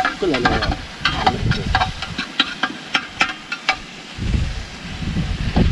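A spoon stirring and scraping in a cooking pot, with repeated sharp clicks of metal on metal over the hiss of food sizzling.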